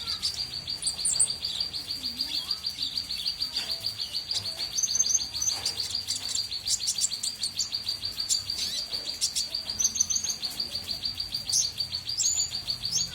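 Small bird singing busily: a fast, steady run of high chirps, with occasional higher notes breaking in over it.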